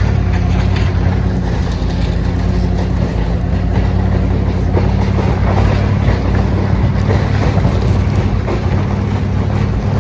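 A vehicle engine running steadily, with heavy wind noise on the microphone and road noise over it.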